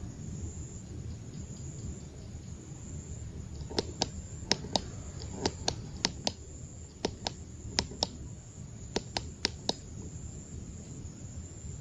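A run of about seventeen sharp, irregularly spaced clicks, starting about four seconds in and stopping near ten seconds. Under them run a steady low rumble and a thin, steady high tone.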